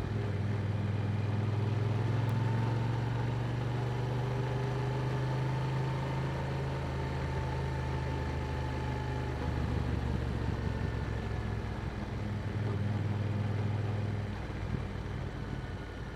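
Yamaha R7's 689 cc parallel-twin engine running through an Akrapovic exhaust, holding a steady pitch, its level dropping somewhat about fourteen seconds in.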